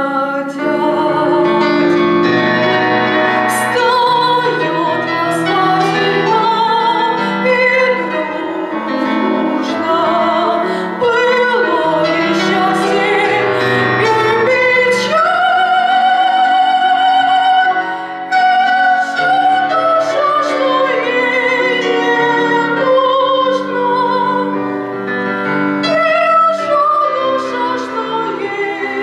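A woman singing a Russian romance in a classical voice with piano accompaniment, her long notes sung with vibrato.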